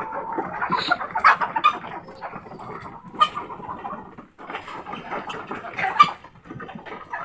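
A flock of tiger chickens clucking and calling, a busy jumble of short calls with sharp sounds among them, loudest about a second in and again around six seconds.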